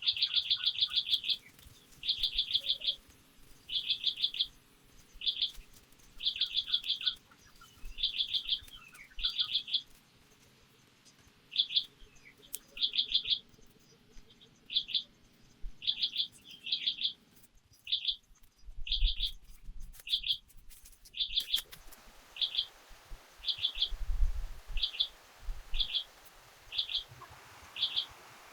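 A bird calling over and over, each call a quick burst of rapid high chirps, repeating about once a second. A few dull low thumps come in the second half.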